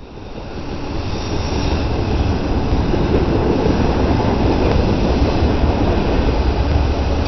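Intermodal freight train of trailers on flatcars rolling past, a steady low rumble of steel wheels on rail. It rises in over the first second or so.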